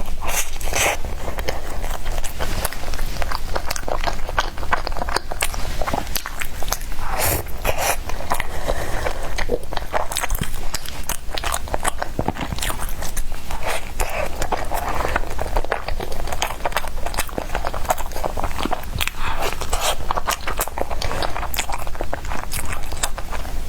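A person biting and chewing soft bread, heard as a dense run of quick, irregular mouth clicks.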